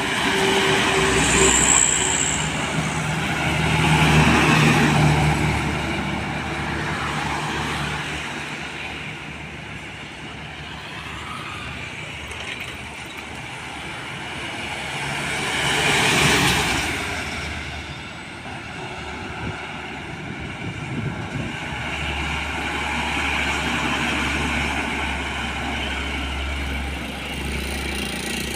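Heavy road traffic: trucks passing by with diesel engine noise that swells and fades several times, loudest about four seconds in and again about halfway through, with a steady low engine drone near the end.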